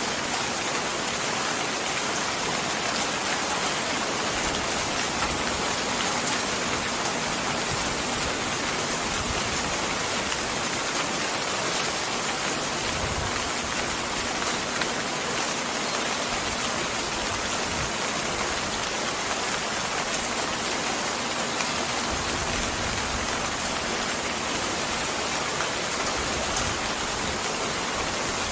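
Steady, even rainfall, a dense continuous patter of raindrops with no change in strength.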